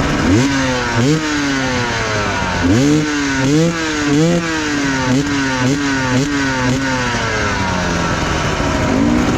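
Enduro motorcycle engine revved in repeated throttle bursts, each rising in pitch and falling back: about five strong revs, then a run of quicker small blips. It drops back to a low steady idle, then gives one more short rev near the end.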